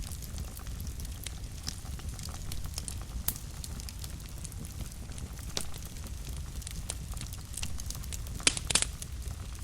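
Wood fire burning in a fireplace, a steady low rumble with frequent sharp crackles and pops. A pair of louder pops comes about eight and a half seconds in.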